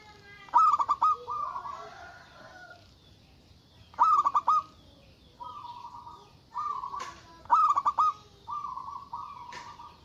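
Zebra dove (local perkutut) cooing: three loud bursts of quick stuttering coos about three and a half seconds apart, with softer drawn-out coos between them.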